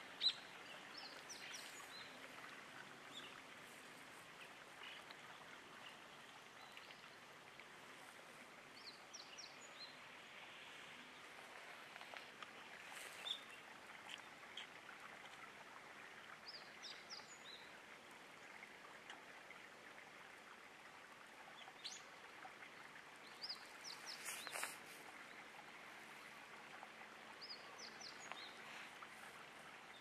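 Faint outdoor background hiss with small birds chirping: short high notes in quick groups of three or four, repeated every few seconds. A sharp click comes just after the start.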